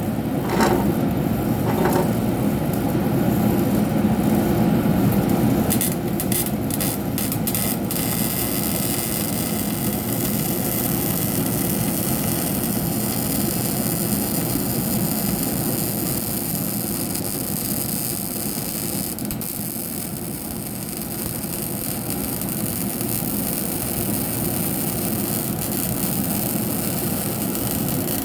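MIG welding arc running with a steady hiss and crackle, plus a few sharp clicks in the first two seconds and a spell of sharper crackling about six seconds in.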